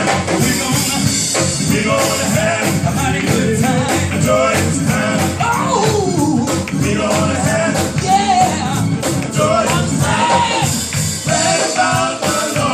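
Live gospel music: a band with drums and tambourine playing an upbeat song, with singing over it.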